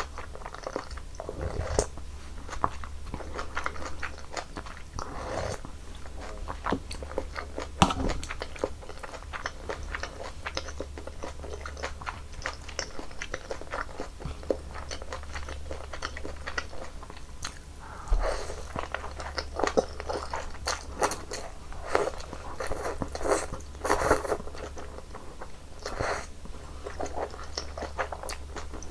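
Close-miked eating sounds: a person chewing and slurping janchi-guksu, soft wheat noodles in hot broth, with many small wet mouth clicks and a few louder slurps in the second half.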